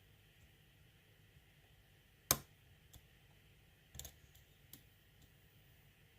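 Small sharp clicks from a lock pick working an ASSA euro cylinder lock: one loud click a little over two seconds in, then a few fainter ones.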